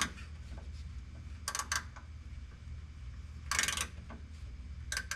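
Hand tools working a truck-bed bolt: a few sharp metallic clicks and clinks, with a short rapid run of clicks about three and a half seconds in, over a steady low hum.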